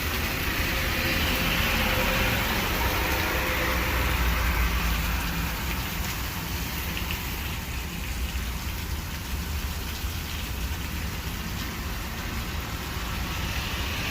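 Steady rain and traffic on wet streets, a continuous hiss with a low rumble of passing vehicles.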